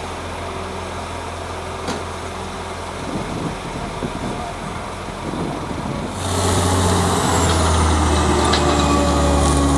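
Large farm tractor's engine running steadily; about six seconds in it becomes much louder, with a higher whine added.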